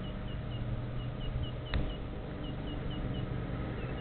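A small bird chirping: short high chirps repeat about four a second in runs over a steady low rumble, with a single sharp click a little before halfway.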